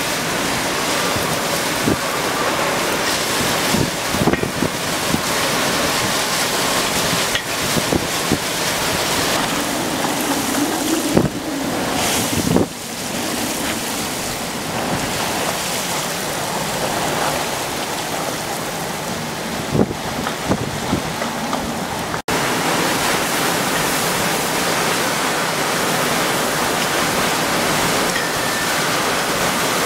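Storm wind and rushing water in a loud, steady rush, with gusts buffeting the microphone and a few brief knocks. The sound drops out for an instant about two-thirds of the way through, then resumes as a steadier rush like pouring water.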